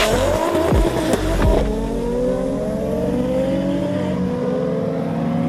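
Two cars launching side by side and accelerating hard, their engines revving up. About a second and a half in the sound changes abruptly to a steadier engine note that keeps rising as the cars pull away.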